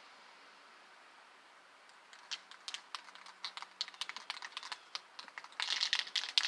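Irregular clicks and crinkling as spray paint cans and painting supplies are handled, starting about two seconds in and growing denser and louder near the end.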